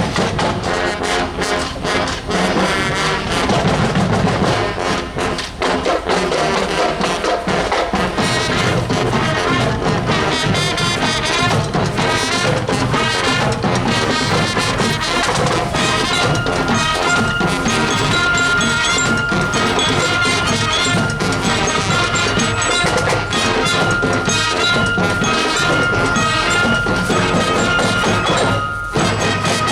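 Marching show band playing: brass (trumpets and trombones) over drums. A long held high note comes in about halfway through.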